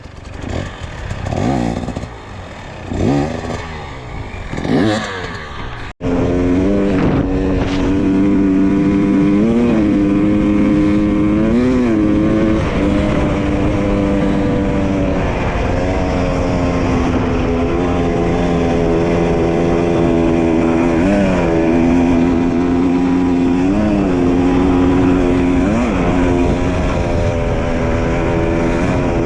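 Dirt bike engine revving up and down in short bursts, then, after a sudden break about six seconds in, running steadily with a few brief throttle blips.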